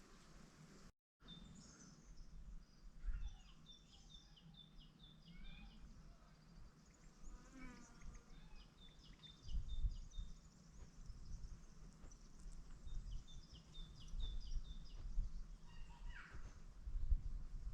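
Small songbirds singing: repeated short chirped phrases and a few falling whistled notes, over an uneven low rumble, with the audio cutting out briefly about a second in.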